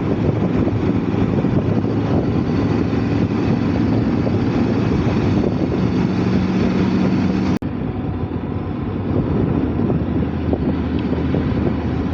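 Motorcycle engine running at a steady cruising speed with wind rush while riding. About seven and a half seconds in the sound cuts out for an instant and comes back slightly duller.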